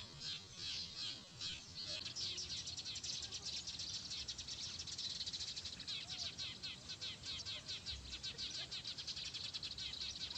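Small birds chirping: a few separate chirps a second at first, then from about two seconds in a fast, continuous run of high chirps.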